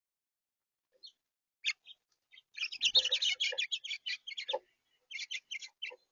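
Small birds chirping: a couple of single chirps, then a fast run of quick notes lasting about two seconds, and a shorter run near the end.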